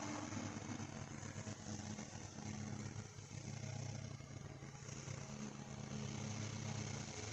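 A steady low machine hum that swells and eases every second or two, under an even hiss.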